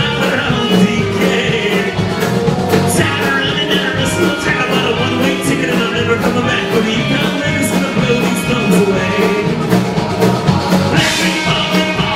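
Live band performing a rock song, with a steady beat.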